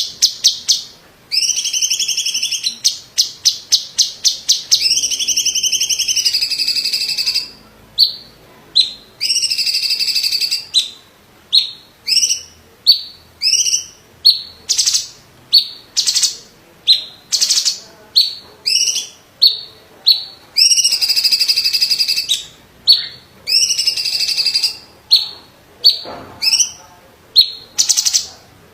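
A cucak ijo of the cungkok type (greater green leafbird) singing loudly. It alternates trains of rapid ticks with longer buzzy rattles, each a second or two long, which bend up and down in pitch, with short breaks between phrases.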